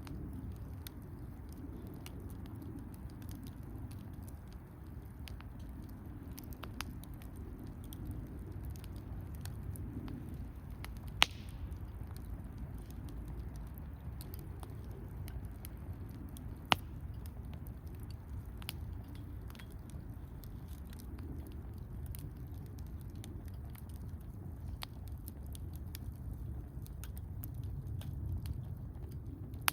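Wood campfire burning: a steady low rumble of flame with small crackles throughout and two loud, sharp pops of the burning wood, about eleven and seventeen seconds in.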